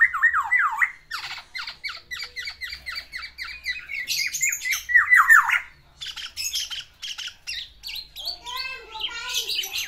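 Black-naped oriole (kepodang) calling in a fast, unbroken run of short downslurred notes, a male courting a female with its mimicked song phrases (isian). Near the end it gives a lower, harsher call.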